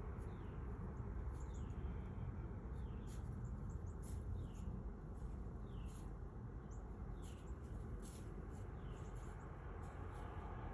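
Small birds chirping, many short high calls, several sliding down in pitch, over a steady low outdoor rumble.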